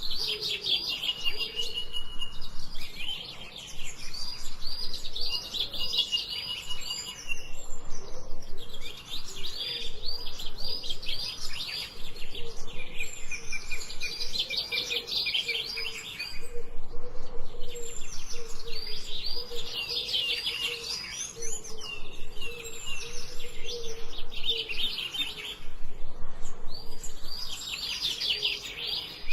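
A songbird singing, repeating short phrases of rapid high notes, many ending in a quick trill, with brief pauses between phrases.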